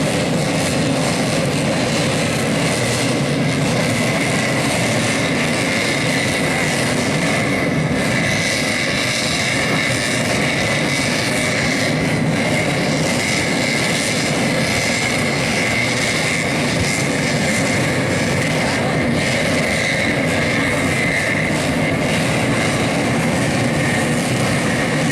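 Modified underbone race motorcycles' engines running in a steady, unbroken drone with a constant high whine.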